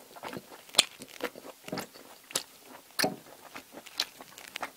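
A person chewing food close to a lapel microphone, with about five sharp crunching clicks spread through the chewing, the loudest about a second in.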